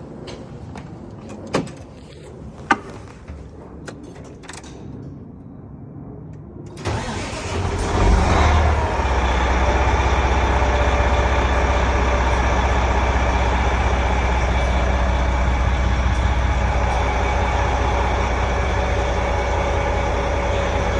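A couple of sharp clicks, then about seven seconds in a Detroit Diesel Series 60 inline-six diesel in a Volvo truck cranks, catches and settles into a steady idle.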